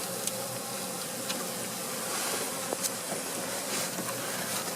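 Honey bees buzzing steadily around an open hive, with a faint hum and a few light clicks from the frames being worked.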